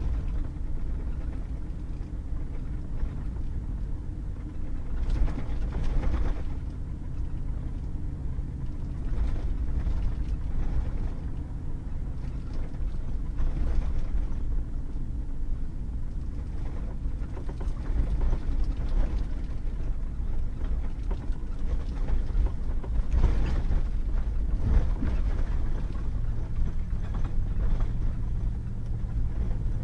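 Pickup truck driving on a wet, muddy gravel road: a steady low drone of engine and tires, with a few brief louder noises along the way.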